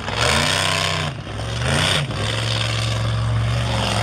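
Monster truck engine revving up and back down twice, then holding a steady note from about two seconds in.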